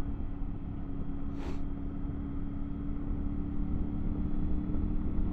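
Triumph Tiger 900 GT Pro's inline-three engine running steadily at a constant cruising pace, over a low rumble, with one short hiss about one and a half seconds in.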